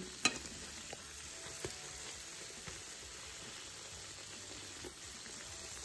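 Jamaican festival dumplings frying in corn oil on medium-low heat: a low, steady sizzle with a few small crackling pops.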